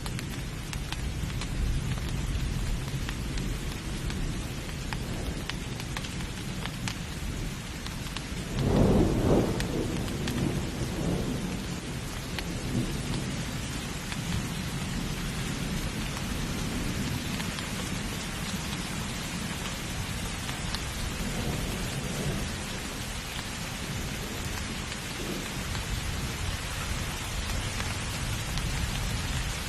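Steady rain falling during a thunderstorm, with low thunder rumbling underneath. About nine seconds in, a louder peal of thunder rumbles and dies away over a few seconds.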